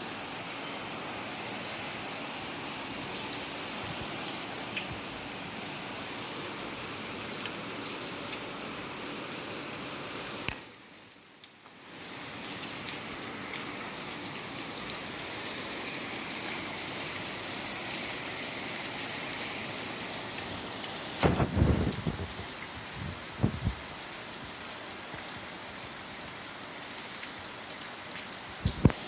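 Rain falling steadily, a continuous hiss. A sharp click about a third of the way in is followed by a short drop-out, and a few loud low thumps come about two-thirds of the way through.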